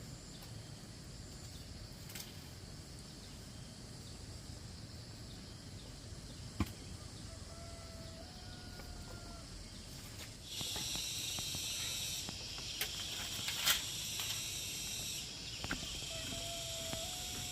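Insects calling in a loud, high-pitched steady drone that starts about two-thirds of the way in, breaks off briefly and resumes. Before it, a faint outdoor background with a couple of sharp clicks and a faint drawn-out call.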